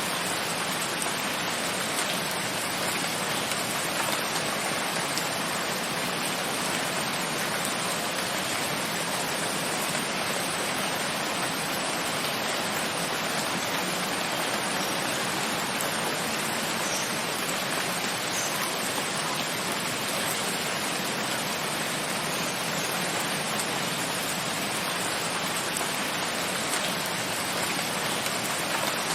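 Steady rain falling, an even hiss that holds constant, with no single drops, thunder or other events standing out.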